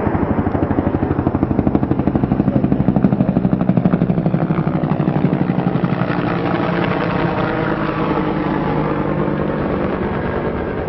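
Engine running with a fast, even pulsing beat, growing louder for the first three or four seconds and then slowly fading, as a vehicle or aircraft passes by.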